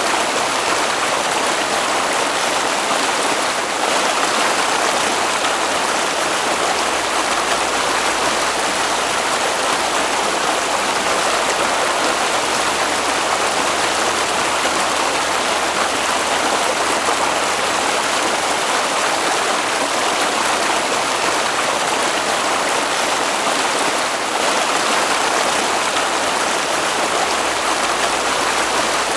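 Water flowing steadily in a stream, an even rushing sound that doesn't change.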